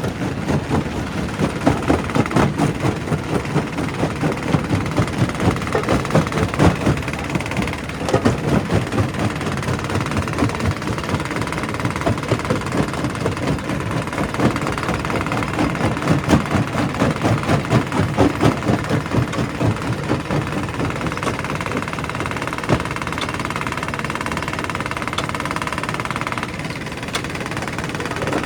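Quarry primary rock crusher working: a dense, irregular clatter of knocks as stone is broken, over the steady running of the machine.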